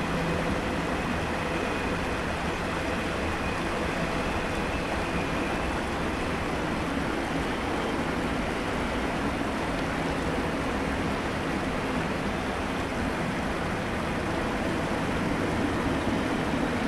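Double-stack freight train rolling steadily past on the bridge, a continuous rumble of its wheels on the rails, mixed with the rush of creek water through the culvert below.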